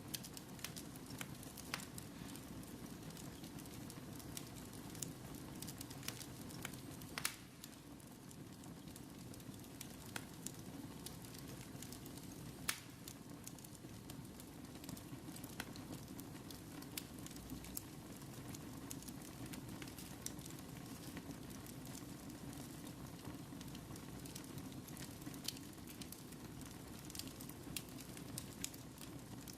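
Wood fire burning in a fireplace: a steady low rumble of flames with irregular sharp crackles and pops, two louder pops about 7 and 13 seconds in.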